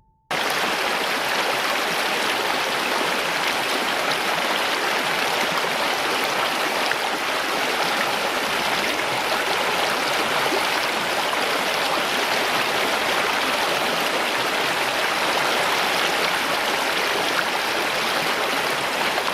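Steady rushing of running water, starting abruptly a moment in.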